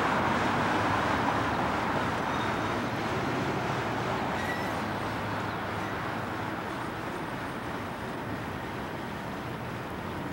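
Steady rumble and hiss of vehicle and traffic noise, slowly growing quieter.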